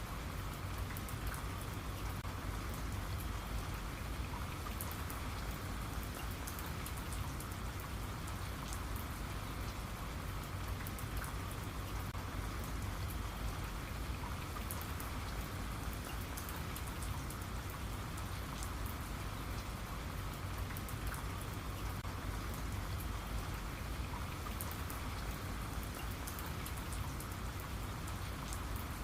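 Steady rain falling, with a dense patter of individual drops on a surface.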